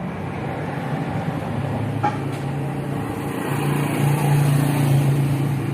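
An engine runs steadily with a low hum that grows louder from about a second and a half in, and a single click comes about two seconds in.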